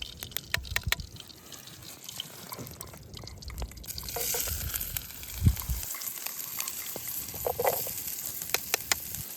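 Hot ghee sizzling and spattering in a cooking pot over a wood campfire, the start of a tadka (tempering). The hiss swells about four seconds in, with scattered sharp crackles throughout and a low rumble in the first half.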